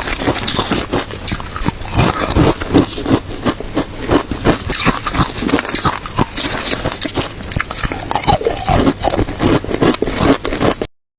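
A person biting and chewing crunchy shaved ice, a dense run of rapid crunching and crackling. It cuts off abruptly just before the end.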